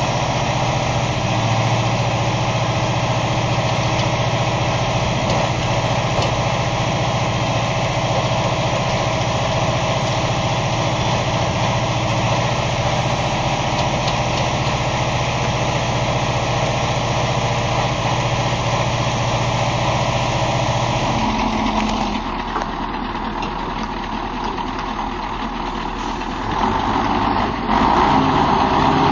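Heavy hooklift truck's diesel engine running steadily. About two-thirds of the way through the sound changes abruptly and drops in level, then grows louder again near the end.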